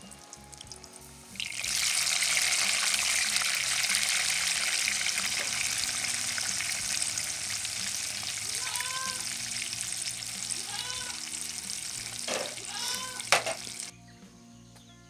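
Sweet potato slices deep-frying in hot oil in a metal pot: a loud, dense sizzle that starts abruptly about a second and a half in and cuts off suddenly near the end. Two sharp knocks come shortly before it stops.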